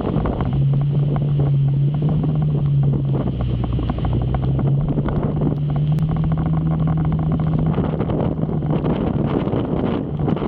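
Motorcycle engine running on the move, its note stepping up slightly a few seconds in, under wind buffeting on the microphone.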